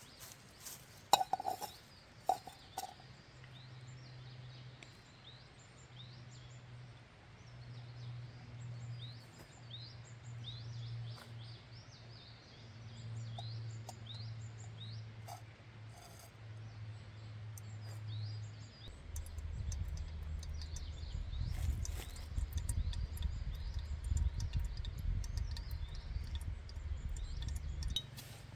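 Small birds chirping over and over above a steady low hum, which turns into a deeper rumble after about 19 seconds. A few sharp clinks sound in the first couple of seconds.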